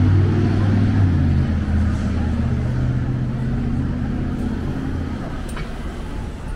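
Motor vehicle engine running on the street: a steady low hum that slowly fades.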